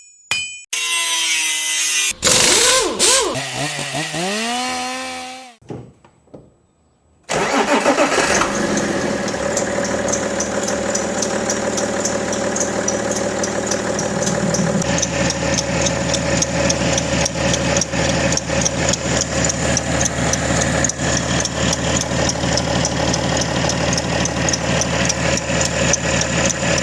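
BMW M57 three-litre straight-six diesel starting cold about seven seconds in, then idling with an even diesel clatter and a steady squeal from the accessory belt, the typical cold-start belt noise of a loose, worn or misaligned belt or a failing pulley bearing. Before the start there are a few seconds of other sounds with gliding pitch, then a short quiet gap.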